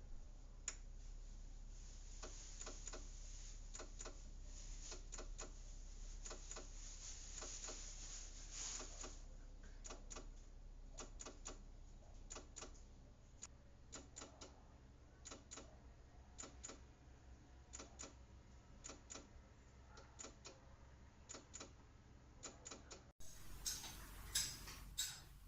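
Faint, irregular clicks and taps, several a second in places, over a low steady hum; the sound cuts off abruptly near the end.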